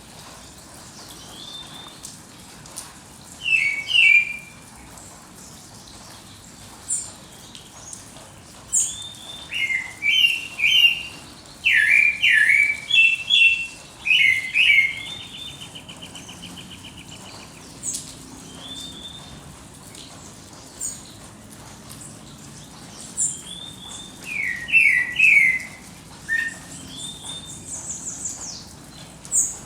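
Songbirds singing at dawn: phrases of short, quickly repeated chirping notes, a fast trill about halfway through, and scattered thin, high chips, with quiet gaps between phrases.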